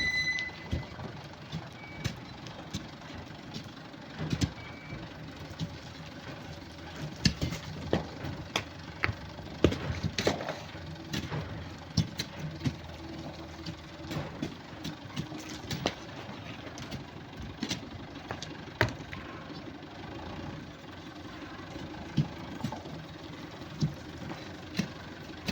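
Irregular sharp knocks and clatters of hand digging in rock and sand, tools striking stone and stones falling, over a steady low hum.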